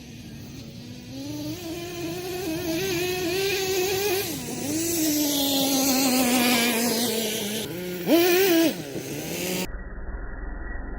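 Nitro RC monster truck's small glow engine running and revving, its pitch wavering up and down as the throttle changes. About eight seconds in it gives one short, sharp, loud rev that cuts off after about half a second.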